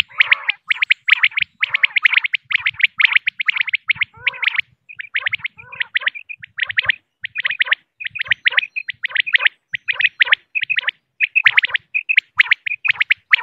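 Female common quail calling: rapid trains of short, high notes, dense at first and then in shorter groups with brief pauses.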